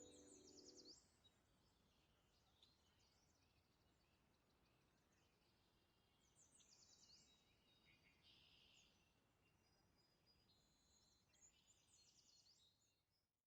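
Faint songbirds singing and chirping in high, repeated phrases, over a light hiss. Background music fades out about a second in.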